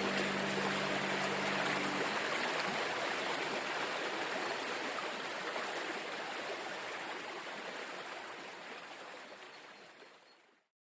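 The last held notes of a soft music track end about two seconds in, leaving a steady rush of running water that fades out gradually near the end.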